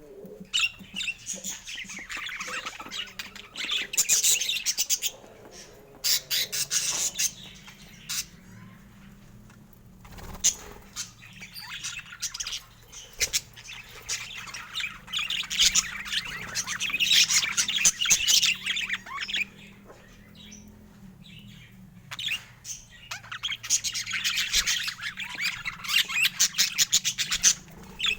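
Budgerigars chattering, chirping and squawking in stretches of several seconds, with two short lulls in between.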